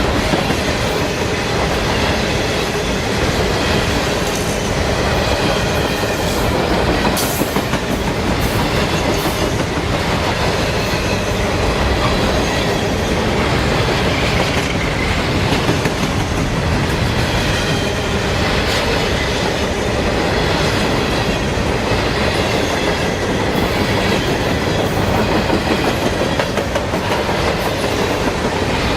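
A train rolling past, its wheels clattering steadily over the rails, with faint high wheel squeal.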